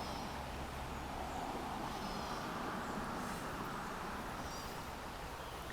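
Steady rush of river water flowing over stones, with a few faint, short bird chirps above it.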